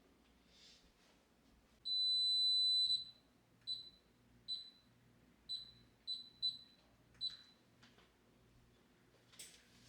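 Electronic beeps from a kitchen appliance's control panel: one high beep lasting about a second, then six short beeps of the same pitch at uneven intervals, as from buttons being pressed. A short click near the end.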